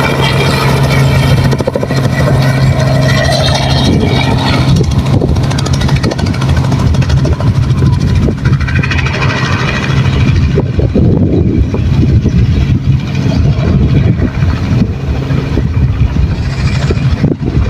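Helicopter running close by: a loud, steady low engine and rotor hum with a rapid chop, and a high whine that fades away about halfway through.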